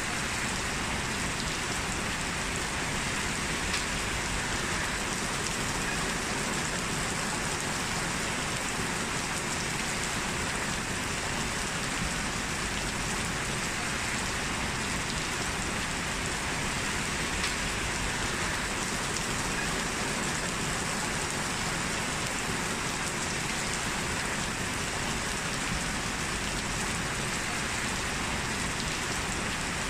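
Steady rain falling on a surface, an even hiss of drops with no letup.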